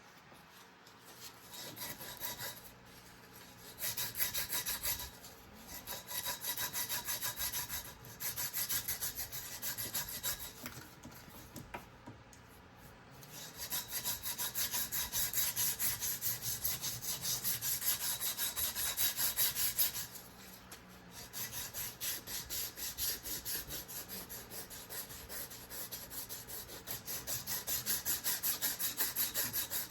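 Hand scrubbing or abrading strokes on the head of an old Woodings-Verona forging hammer as it is cleaned up. The strokes go back and forth at about three a second, in runs of several seconds with short pauses between.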